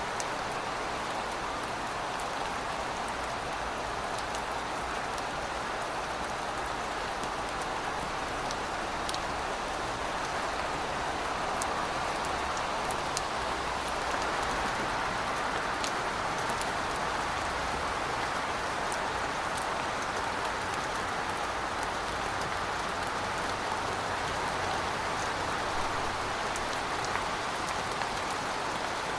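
Steady rain falling, with scattered sharp drop ticks over an even hiss. No thunder is heard.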